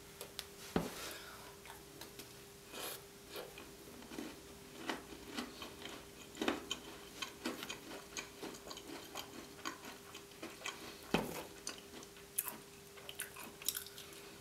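Close-miked small crunches and clicks of chewing and of handling gingerbread house pieces, scattered irregularly, with two louder knocks, one about a second in and one near the end, over a faint steady hum.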